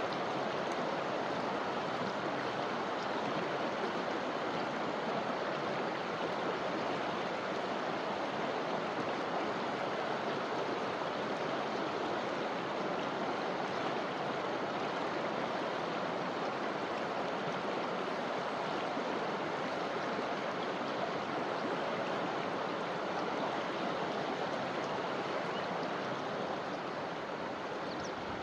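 Forest river flowing, a steady rush of running water.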